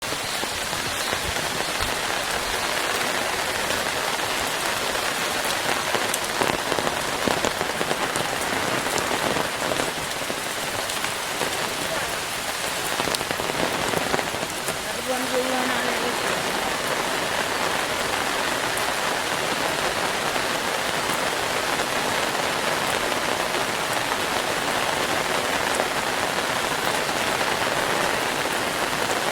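Steady rain falling, with many distinct drop ticks through it. A brief faint pitched sound comes about halfway through.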